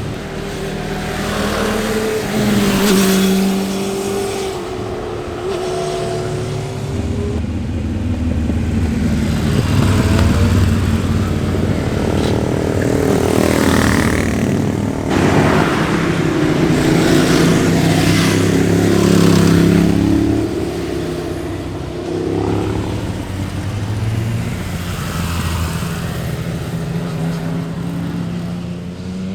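Sport motorcycles passing at speed one after another, engines revving up and down through the gears, each swelling and fading as it goes by.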